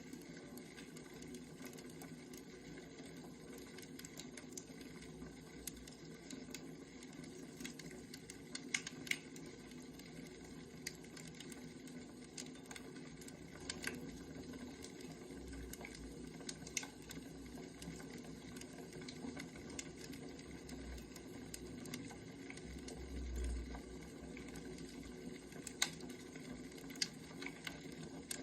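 Burning firewood: a faint, steady crackle with sharp pops every few seconds.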